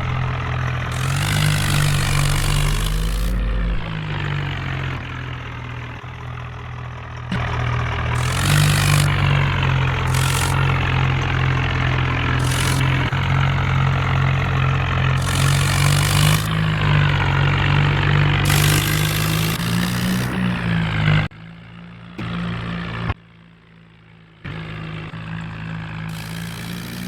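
Tractor diesel engine running hard, its pitch rising and falling several times as it is revved. About 21 seconds in the sound drops off abruptly and comes back quieter.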